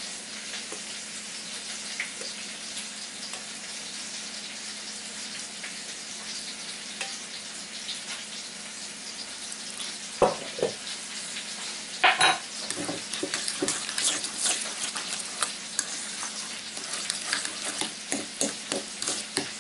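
Chicken frying in bacon grease with a steady crackling sizzle. From about ten seconds in, a metal spoon scrapes and clinks against a stainless steel bowl as guacamole is stirred.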